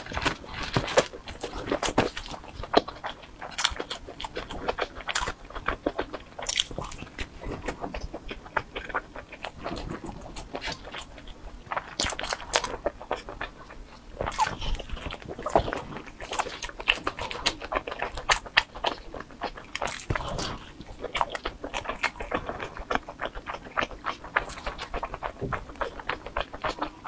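Close-miked chewing and mouth sounds of someone eating pizza: an irregular run of short wet clicks and smacks, with some crust crunching.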